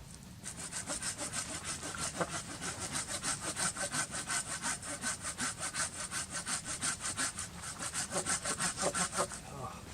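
Hand saw cutting through firewood in quick, even strokes, about four or five a second, stopping shortly before the end.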